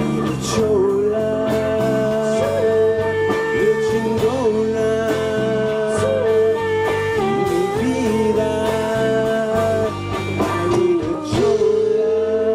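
Live band music: a held lead melody that bends and slides in pitch, over bass notes and a steady drum beat.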